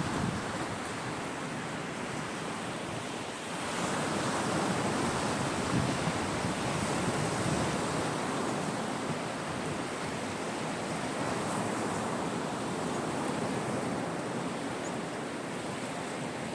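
Sea waves breaking on the shore: a continuous wash of surf, with a wave swelling louder about four seconds in and slowly easing off over the following seconds.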